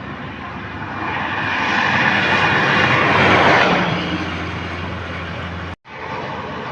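Road traffic on a toll road: a vehicle's tyre and engine noise swells to a peak about halfway through and fades, leaving a steady low engine hum. The sound cuts out for a moment near the end, then the traffic noise resumes.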